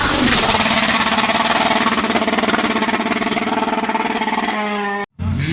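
Rally car engine revving up and held at high revs for about four seconds. Its pitch falls away near the end. The sound cuts out abruptly and another engine comes in.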